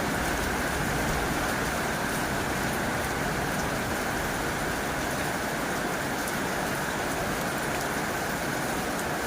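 Heavy rain falling steadily on a tin roof, an even hiss with faint scattered drop ticks.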